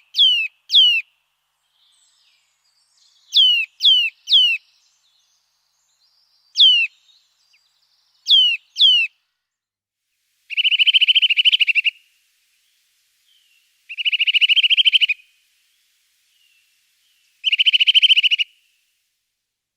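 A small songbird calling: sharp, high whistled notes that fall steeply in pitch, in quick pairs and threes, then three dry rattling trills about a second long each, a few seconds apart.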